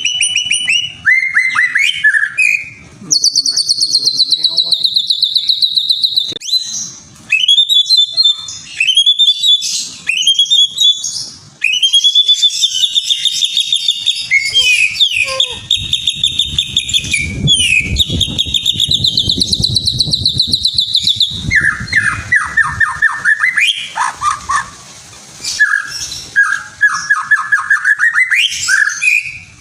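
Songbird singing continuously in long, varied phrases of very fast repeated notes and rising whistled slides, a pancingan lure track for provoking caged songbirds to sing. Past the middle the phrases drop lower in pitch into runs of fast chattering notes.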